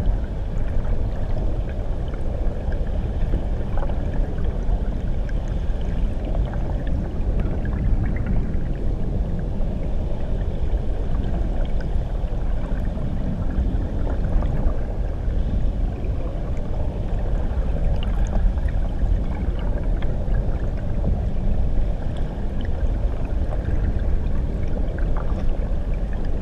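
Muffled underwater recording of water churning and bubbling, a steady low rumble with faint gurgles, like being under a waterfall.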